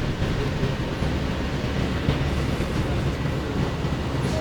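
Steady low rumble of a moving transit vehicle, heard from inside the passenger cabin.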